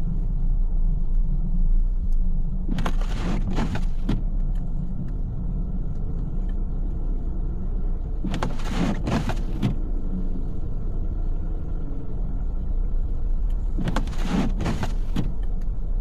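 Car interior road rumble while driving in snow, with a windshield wiper sweep about every five to six seconds, three times.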